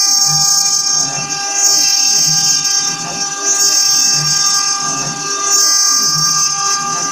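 CNC milling-engraving machine's spindle running at speed while it cuts, a steady high whine made of several even tones, with cutting noise that swells and fades.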